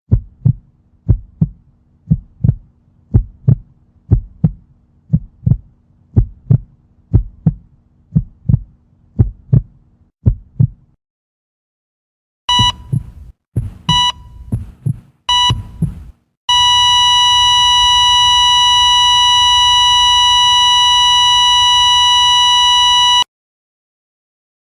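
Heartbeat sound effect: a low double thump about once a second for roughly eleven seconds, then it stops. Three heart-monitor beeps follow, about a second and a half apart, then a long steady flatline tone of about seven seconds that cuts off suddenly: the cardiac-arrest flatline effect.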